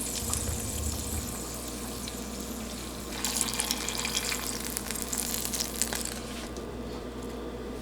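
Water running from a kitchen tap, a steady hiss that is shut off about six and a half seconds in.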